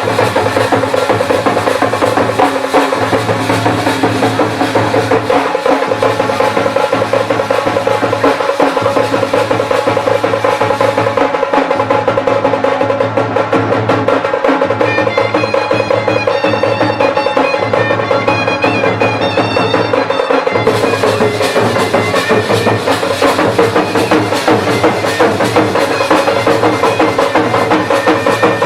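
Traditional drum-and-shehnai band of dhank and nagada drums, tasa, jhanjh cymbals and shehnai playing continuously. Dense, steady drumming runs beneath sustained reed melody tones.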